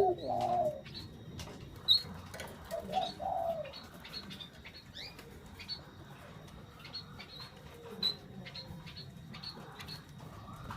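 Puter doves (Barbary doves) cooing briefly, a short coo just after the start and another around three seconds in. Many quick, high chirps from other small birds go on throughout, with scattered light clicks.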